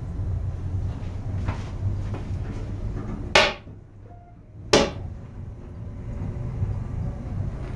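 Steady low rumble of a moving train, heard inside its toilet cubicle, with two sharp knocks about a second and a half apart near the middle.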